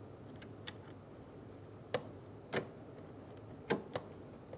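Four or five separate sharp plastic clicks: a door lock actuator's lock cable being snapped into its ball socket and clipped into its bracket.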